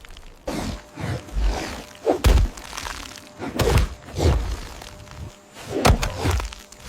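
A series of about seven heavy thuds and cracking impacts at irregular intervals, each with a deep low-end boom and a short ringing tail; the loudest comes a little past two seconds in.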